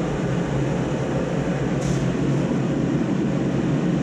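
Shop heater running with a steady noise, with a brief high hiss about two seconds in.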